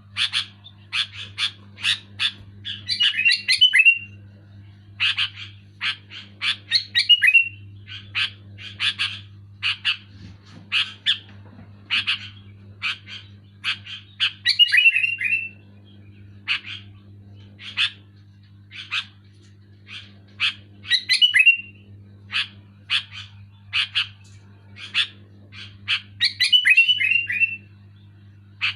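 Sooty-headed bulbul (kutilang) calling loudly: sharp short notes about two a second, broken five times by a quick run of falling chattering notes. A steady low hum runs underneath.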